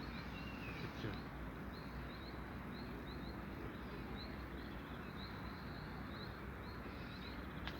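Small birds chirping: short, high notes repeated every half second or so over a steady outdoor background hum.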